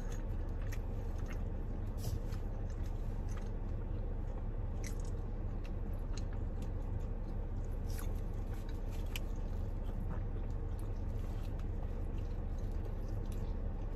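Chewing and biting into Egg McMuffin sandwiches (English muffin, egg, Canadian bacon), with scattered soft mouth clicks, over a steady low hum inside a car cabin.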